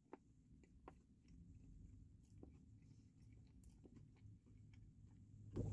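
Faint closed-mouth chewing of a mouthful of chicken sandwich: soft wet mouth clicks every second or so over a faint low steady hum, which swells louder just at the end.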